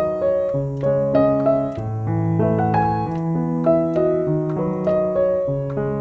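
Background piano music: a steady melody of sustained keyboard notes.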